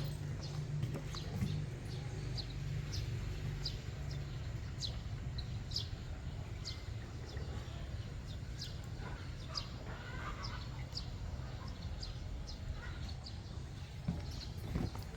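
Steady low rumble inside a train carriage, with short high chirps repeating every second or so.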